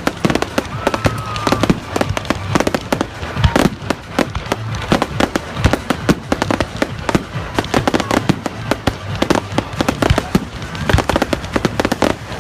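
Fireworks going off in a dense, continuous barrage of bangs, pops and crackles, several a second.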